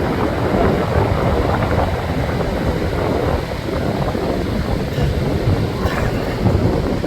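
Wind buffeting the microphone in a steady, fluttering rush.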